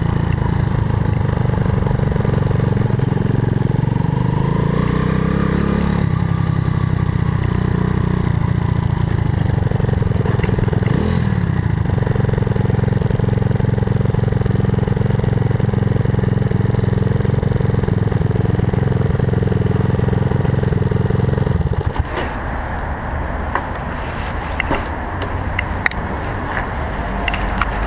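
Cub-style motorcycle's new Zongshen 190 cc single-cylinder four-stroke engine running at low speed, its note rising and falling with throttle and gear changes. About 22 seconds in the engine sound drops away sharply, and a run of light clicks and knocks follows as the bike comes to a stop.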